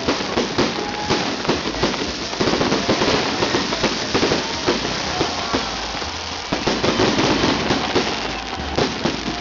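Fireworks display: dense, continuous crackling and popping, with a few short whistles mixed in.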